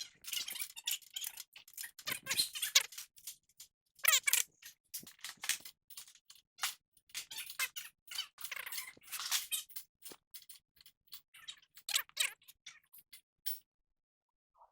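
Wrench tightening the castle nut on a freshly fitted tie rod end, giving short irregular bursts of clicking and squeaking.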